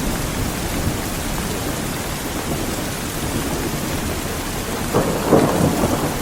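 Heavy rain falling steadily with low thunder rumbling underneath, and a few louder surges about five seconds in.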